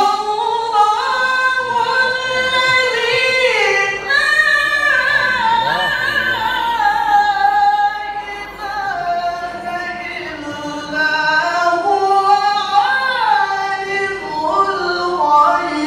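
A Qur'an reciter's voice chanting in long, ornamented melodic phrases (tilawah), each syllable drawn out and bent up and down in pitch.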